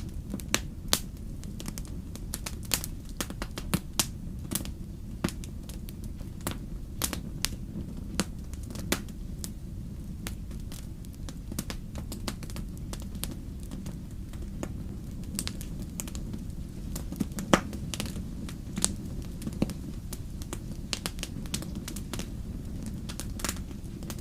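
Wood campfire crackling, with irregular sharp pops and snaps of burning firewood, one louder pop about two-thirds of the way through. A steady low rumble runs underneath.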